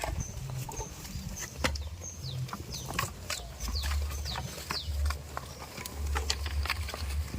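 Small birds chirping repeatedly in short, quick, falling high notes, over an uneven low rumble.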